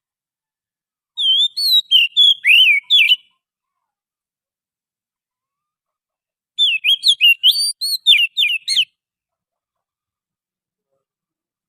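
Oriental magpie-robin (kacer) singing two phrases of quick, varied whistled notes, each about two seconds long, with a pause of about three seconds between them.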